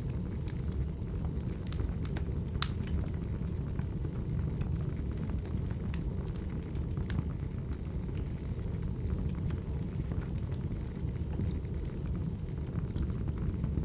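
Firewood fire burning: a steady low rumble of flames with scattered crackles and pops, one sharper pop about two and a half seconds in.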